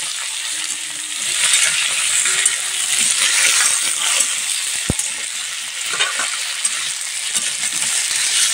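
Chunks of tuber and onion sizzling steadily in hot oil in a metal kadhai while a metal spatula stirs and scrapes them around the pan, with one sharp clink of the spatula against the pan about five seconds in.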